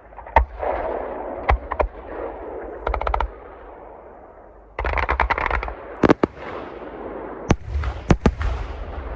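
Aerial fireworks display: single shells bursting with sharp bangs, and twice a rapid string of quick reports like a machine gun, with a hissing, echoing wash of sound between the blasts.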